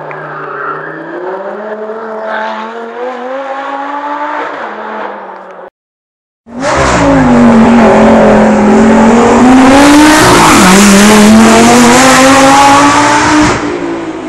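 Hillclimb race car engines. First one car accelerates, quieter, its engine note climbing steadily. After a brief silent cut about six seconds in, a second car is very loud, revving high with a sudden dip in pitch at a gear change, and eases off near the end.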